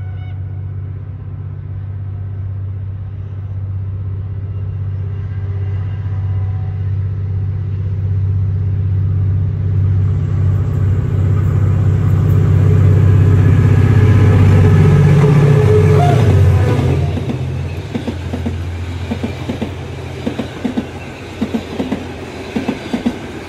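Henschel AA22T diesel locomotive hauling a passenger train approaches, its engine drone growing steadily louder. The drone drops in pitch as the locomotive passes about sixteen seconds in. The coaches follow with a rhythmic clickety-clack of wheels over the rail joints.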